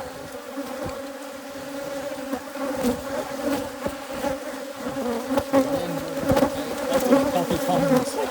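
Agitated Africanized hybrid honey bees buzzing around their opened hive: a dense, steady hum of many bees, with frequent short clicks, growing louder toward the end. The bees are defensive, stirred up by alarm pheromone.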